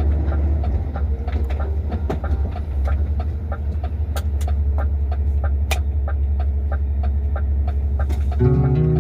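Heavy truck engine running with a steady low drone, with a regular sharp clicking about three times a second over it. Guitar music comes in near the end.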